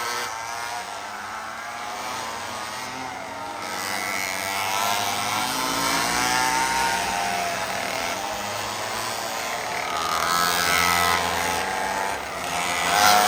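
Several 49cc mini bike engines running together, their pitch rising and falling as they rev up and ease off.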